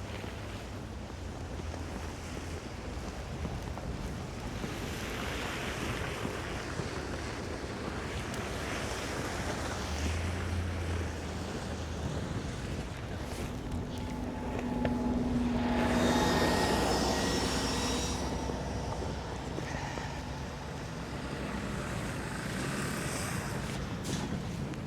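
A steady rushing background with a low hum, and a motor vehicle passing, loudest about sixteen seconds in, with a faint whine.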